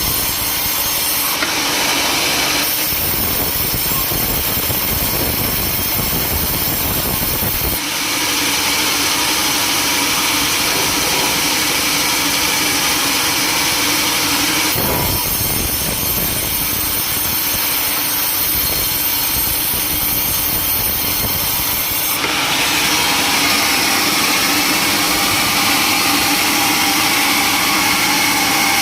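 Sawmill saw running and cutting timber: a continuous loud mechanical whine and rumble whose tone changes abruptly several times.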